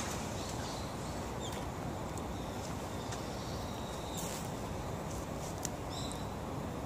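Steady outdoor background noise with a few faint, short bird chirps and small clicks scattered through it.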